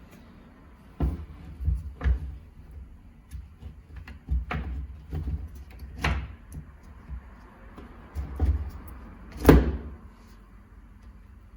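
Irregular knocks and clacks of hard parts and tools being handled, some ten or so separate strikes, the loudest about two seconds before the end.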